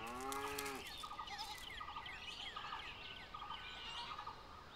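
Several birds calling and chirping, with short repeated calls throughout and a short falling call at the start.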